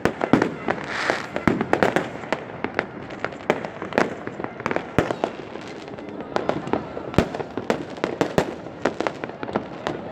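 Fireworks going off: an irregular, rapid run of sharp bangs and pops, several a second, over a continuous crackle.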